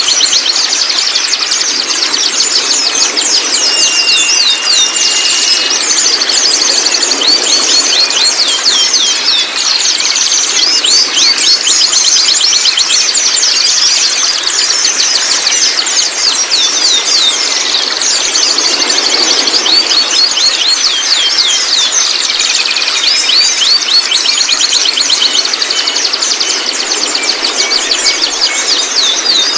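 Young white-rumped shamas chattering nonstop, a dense stream of rapid high chirps, with a brief steady whistle about four seconds in.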